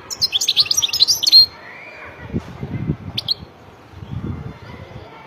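European goldfinch singing a quick twittering burst of high notes for about a second and a half, then one short note about three seconds in.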